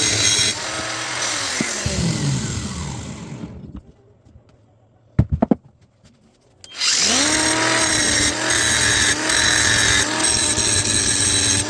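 A grinder grinding the crack in a cast-iron vice base into a V for welding. Partway through it is switched off and winds down with a falling whine. Two sharp knocks sound in the lull, then it is switched on again about seven seconds in, spins up with a rising whine, and goes back to grinding.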